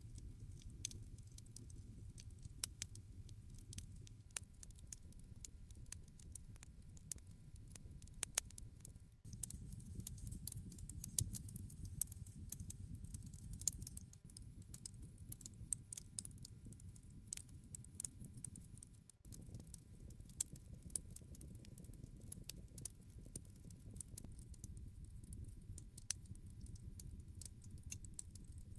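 Wood campfire crackling, with irregular sharp pops and snaps over the low, steady rumble of the burning fire.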